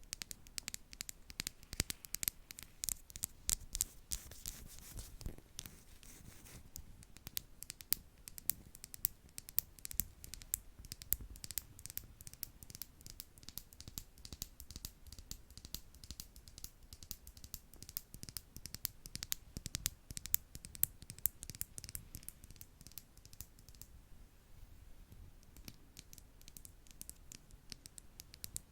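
Makeup brushes tapping and brushing against a microphone at close range: a dense, irregular run of soft ticks with scratchy swishes.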